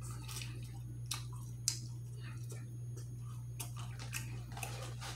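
A person chewing with the mouth close to the microphone and sucking food off his fingers: scattered wet smacks and clicks of the lips and tongue, over a steady low hum.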